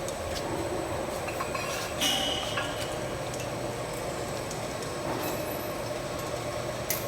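Automatic ultrasonic bottle washing machine running: a steady mechanical hum with scattered clicks and clinks, and a short louder rush about two seconds in.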